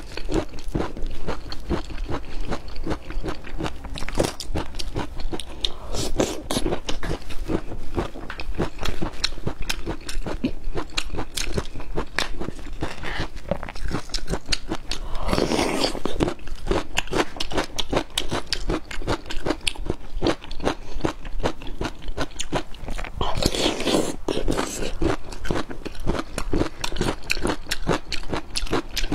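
Close-miked crunching and chewing of crisp bamboo shoot, mixed with the crackle of husk sheaths being peeled off the shoot by hand. Two louder, longer stretches of tearing crunch come about halfway through and again near the end.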